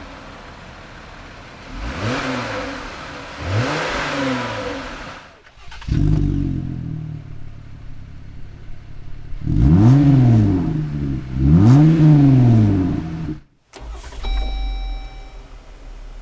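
Jeep Wrangler engine with a K&N aftermarket exhaust, blipped twice from idle, then idling steadily before two longer, louder revs that rise and fall. The sound breaks off abruptly twice, once between the first pair of revs and the idle and again shortly after the second pair of revs.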